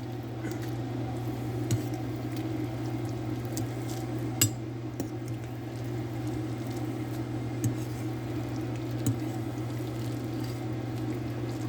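A utensil stirring ramen noodles in broth in a bowl: wet squishing with a few light clinks against the bowl, over a steady low hum.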